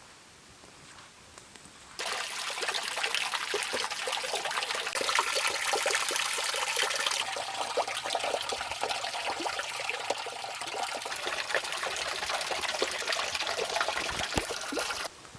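Water splashing and trickling, full of fine crackles. It starts abruptly about two seconds in and cuts off suddenly near the end.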